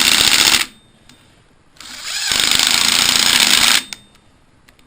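Battery-powered impact wrench hammering on an engine bolt in two loud bursts. The first cuts off about half a second in, and a second, about two seconds long, starts near the two-second mark.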